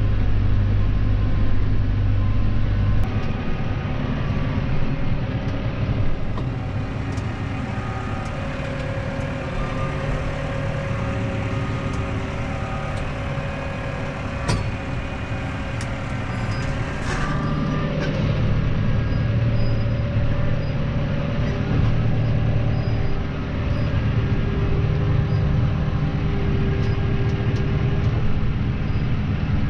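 Claas Arion 530 tractor engine running steadily under work. A deep low rumble falls away about three seconds in, and the engine note shifts again a little past halfway, with a few sharp clicks.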